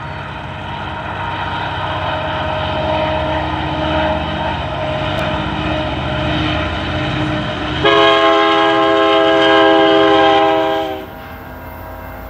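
BNSF diesel freight locomotives passing with engine rumble and rail noise. About eight seconds in a locomotive horn sounds one long multi-tone chord of about three seconds, which cuts off abruptly.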